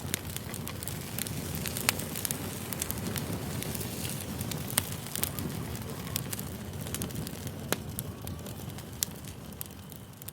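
Campfire crackling: a steady low rumble of burning wood with sharp pops scattered irregularly through it, a few standing out loudly.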